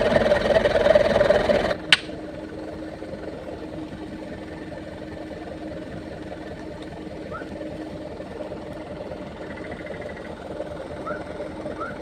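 A diesel engine running loudly, cut off abruptly with a click a couple of seconds in, followed by a quieter steady engine hum. A few faint short chirps sound over the hum near the end.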